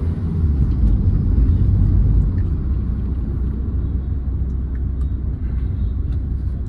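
Steady low rumble of a Verna 1.6 turbo-diesel car on the move, engine and road noise heard from inside the cabin, a little louder in the first couple of seconds.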